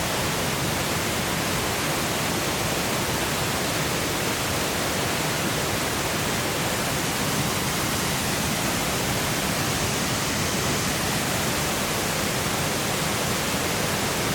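Waterfall rushing steadily close to the microphone, an even wash of noise from low to high with no breaks.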